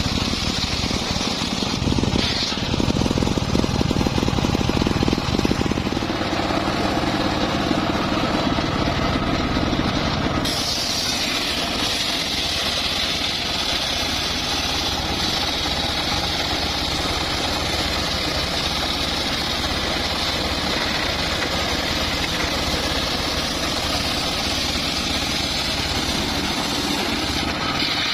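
Engine-driven homemade circular sawmill running steadily, its blade sawing a log. About ten seconds in the sound shifts and a higher whine comes in and holds.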